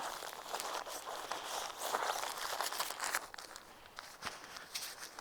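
Irregular rustling and crinkling of a deflated, rolled-up air sleeping mat's fabric as it is handled and folded for packing, with many small sharp crackles.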